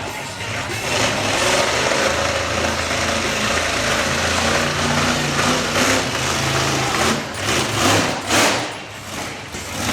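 Monster truck engine running hard and loud, its pitch stepping up and down as the throttle changes. Several short loud surges follow near the end.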